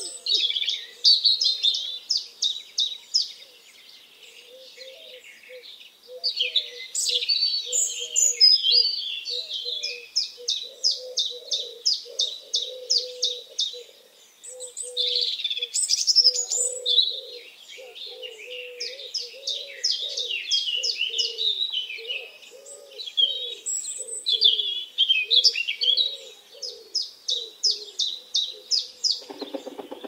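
Songbirds singing: rapid trilled phrases and high chirps, with a lower soft note repeating about twice a second underneath. A brief low buzz comes near the end.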